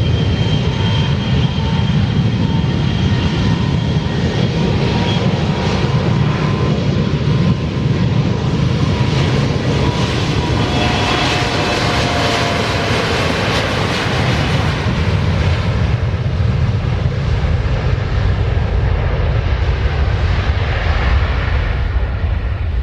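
Embraer E175 regional jet's twin CF34 turbofan engines at takeoff power, a loud steady rumble through the takeoff roll. A thin whine fades within the first several seconds, and a rushing hiss swells about halfway through as the jet passes.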